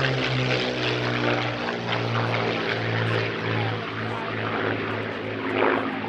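Rolls-Royce Merlin V12 piston engines of a Spitfire and a Hispano Buchon in a dogfight display, giving a continuous propeller-aircraft drone that swells and fades as they manoeuvre.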